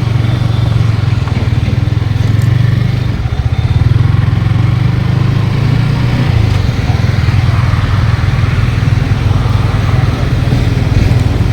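Motorcycle engine running steadily, a loud low drone that shifts slightly in pitch a few times.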